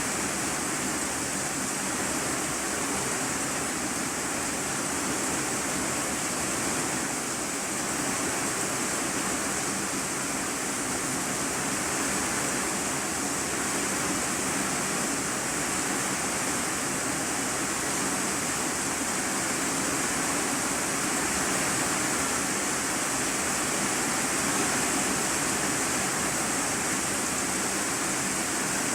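Heavy rain falling on an iron-sheet roof, heard from the room beneath: a steady, dense hiss that does not let up.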